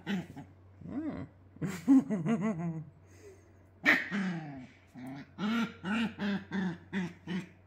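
Dog vocalizing in a string of short, pitched grumbling whines, coming in quick runs and ending in a steady series of about three a second.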